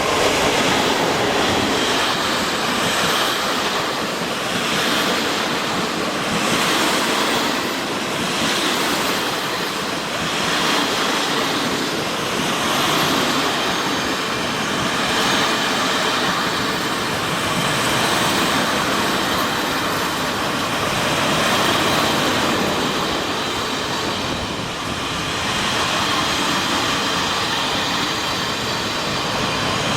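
A train running on the track: a loud, continuous rush of wheel and rail noise that swells and eases roughly every two seconds as the cars go by.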